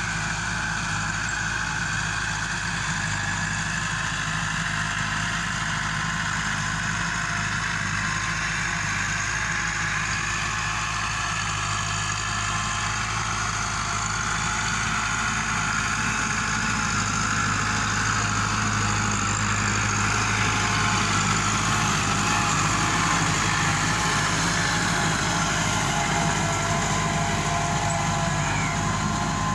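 Massey Ferguson 385 tractor's Perkins four-cylinder diesel engine running steadily, a little louder past the middle and easing back near the end.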